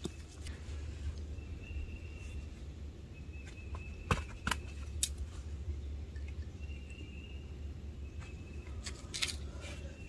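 A bird calling outdoors with short, flat, whistle-like notes repeated about five times, over a low steady rumble. A few sharp clicks or snaps come about four to five seconds in and again near the end, and these are the loudest sounds.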